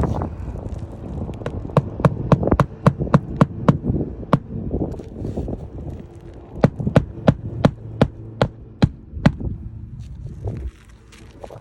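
Hand hammer striking roofing nails into asphalt shingles: two runs of quick, evenly spaced blows, several a second, with a pause between them.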